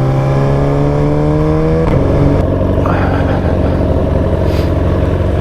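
Motorcycle engine running at a steady, slowly rising pitch for about two seconds, then dropping to a lower, rougher rumble at lower revs.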